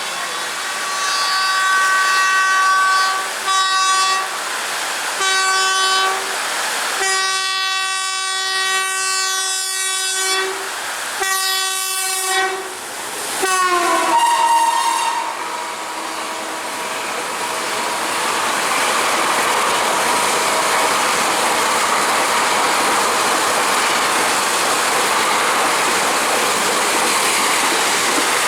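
Express train locomotive horn sounding a series of blasts, one of them long, as the train approaches at speed; the horn's pitch drops sharply as the locomotive passes. Then a steady rushing noise with clickety-clack as the coaches go by in heavy rain.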